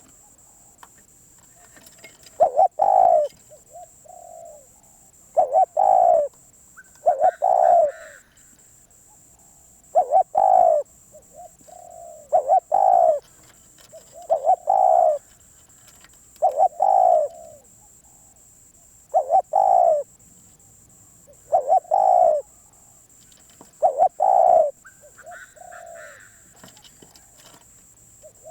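Spotted dove cooing over and over, a loud coo phrase about every two to three seconds, some followed by a softer trailing note.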